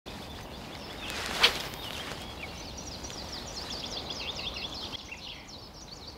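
Riverside outdoor ambience with a steady hiss, a single sharp click about a second and a half in, then a small bird singing a long run of quick, high, falling notes.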